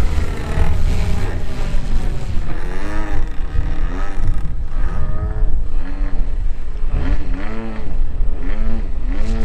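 DA-50 single-cylinder two-stroke gas engine of a 50cc RC aerobatic plane, revving up and down again and again as the throttle is worked, likely holding a hover. Wind rumbles on the microphone underneath.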